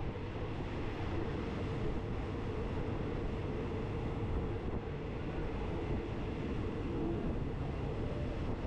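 Passenger train running: a steady rumble with a faint steady hum.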